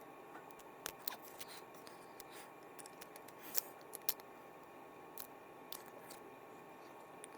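Small parts of a fishing reel clicking and tapping as it is taken apart by hand: irregular light clicks, the two loudest about three and a half and four seconds in.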